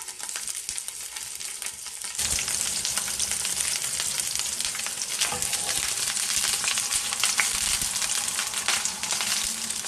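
Skewered paneer, onion and capsicum (paneer shashlik) sizzling and crackling as they fry in hot oil in a frying pan, growing louder about two seconds in as more skewers go into the pan.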